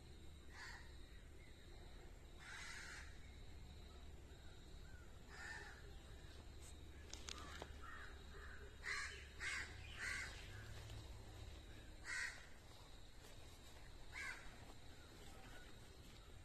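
Short bird calls repeated every second or two, with a louder quick run of three about two-thirds of the way through.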